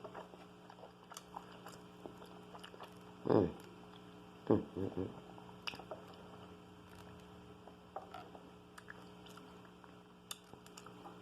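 Close-up chewing and small wet mouth clicks of a person eating, over a steady electrical hum. Two short vocal sounds from the eater come about three and four and a half seconds in.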